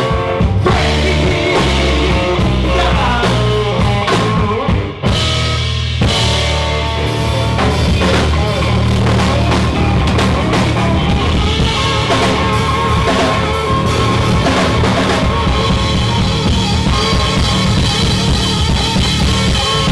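Live blues-rock band playing an instrumental passage of the song after the last sung line, loud and continuous, driven by a drum kit, with a brief break about five seconds in.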